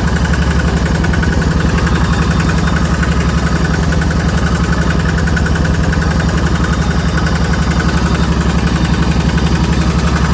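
Engine of an open-air farm truck laden with sugar cane, running steadily under load with an even, rapid chugging.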